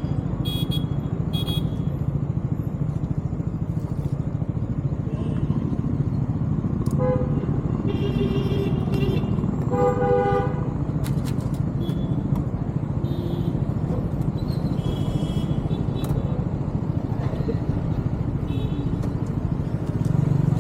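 Steady drone of a motorcycle riding through traffic, with vehicle horns honking several times; the loudest honks come about seven and ten seconds in.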